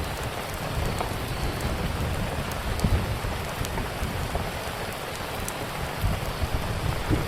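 Steady rain hiss with a low uneven rumble underneath, and scattered sharp pops and crackles from a wood fire.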